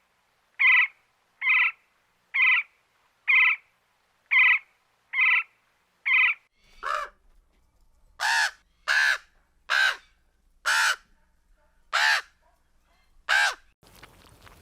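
Bird calls: a run of about eight short calls, evenly spaced a little under a second apart, then from about halfway a second, louder series of about six calls.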